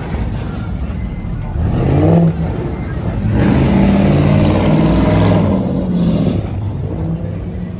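Car engine revving up hard twice, a short rise and then a longer, louder one, before settling back.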